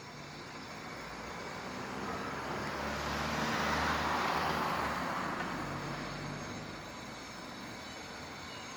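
A road vehicle passing by: a tyre-and-engine rush that swells to a peak about four seconds in, then fades away.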